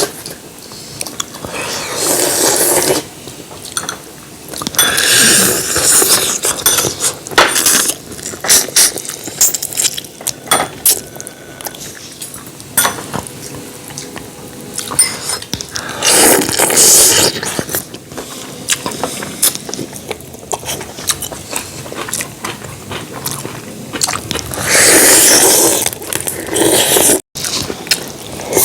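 Close-miked eating: wet slurps of stew broth in several longer bursts of a second or two, with chewing and many sharp clicks of utensils against dishes in between.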